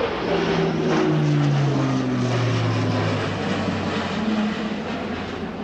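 Airbus A400M Atlas's four TP400 turboprop engines and propellers passing by in flight, their propeller tone falling steadily in pitch as the aircraft goes past.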